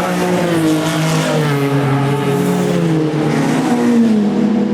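Sports saloon racing car engine running hard, its pitch falling gradually as the revs drop off.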